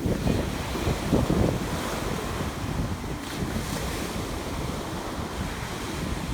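Ocean surf washing on a beach, with wind buffeting the microphone in low gusts.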